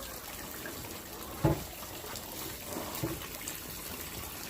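Water trickling and splashing as livestock water is refilled, with one sharp knock about a second and a half in and a couple of softer knocks later.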